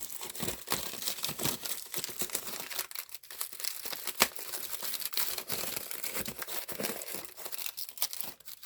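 Packaging around a small parcel crinkling and tape tearing as it is unwrapped by hand, a dense run of irregular crackles with a sharp louder click about four seconds in.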